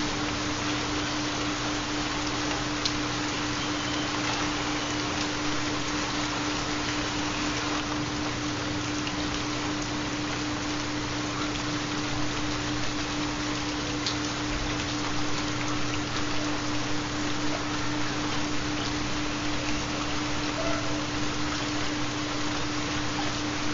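Steady rain with scattered raindrop ticks, under a continuous low pure tone: a 4 Hz theta binaural-beat track.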